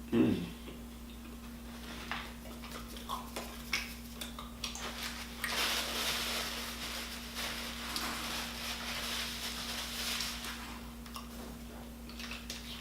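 Eating a cream-filled doughnut: a short hummed vocal sound at the start, then scattered clicks and mouth noises, with several seconds of rustling in the middle. A faint steady hum runs underneath.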